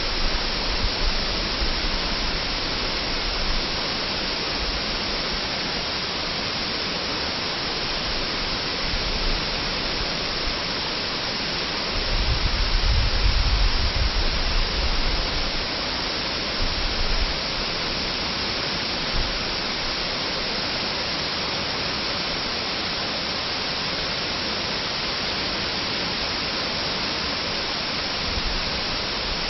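Waterfall: a steady rush of falling water, with a low rumble that swells for a few seconds about twelve seconds in.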